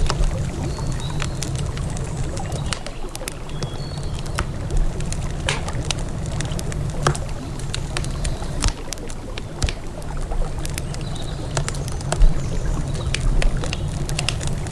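Campfire crackling with irregular sharp pops and snaps over a steady low rumble of flowing river water. A few short, faint bird chirps come through now and then.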